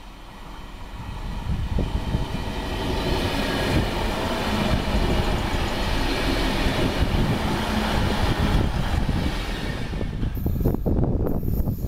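A train approaching and passing, growing louder over the first two seconds into a steady rumble of wheels on rail, with a run of sharp clicks near the end.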